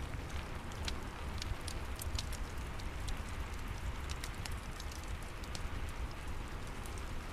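Steady rain with a low rumble underneath, and scattered sharp crackles and pops from a fireplace fire.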